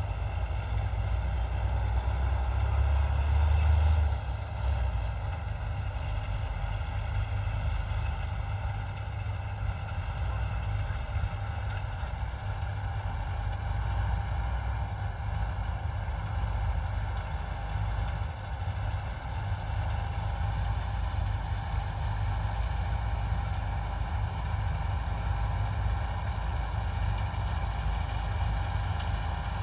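Heavy John Deere farm diesel machine running steadily, a deep engine rumble with steady higher whines above it. The rumble is heavier for the first four seconds, then settles to an even level.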